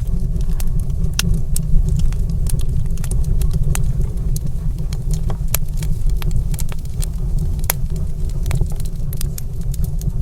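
Wood fire crackling in a stone fireplace: frequent irregular sharp snaps and pops over a steady low rumble of the burning fire.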